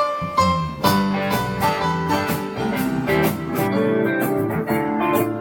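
Strummed acoustic guitars playing a lively tune. After a short lull, the strumming starts up about a second in.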